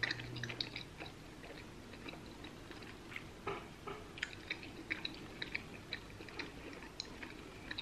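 A person chewing gum: faint, irregular mouth clicks.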